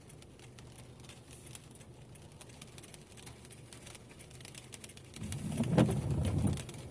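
Car cabin on a rainy drive: low steady road hum with light patter of raindrops. About five seconds in, a louder low, pulsing rumble with a sharp click lasts about a second and a half.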